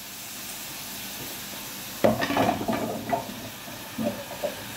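Leeks sizzling gently in butter and oil in a cast-iron casserole; about two seconds in, chunks of butternut squash are tipped into the pot and land with a sudden run of thuds and louder sizzling, followed by a couple of softer knocks near the end.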